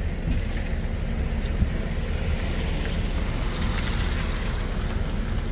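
Car engine running at a standstill, a steady low rumble heard from inside the cabin.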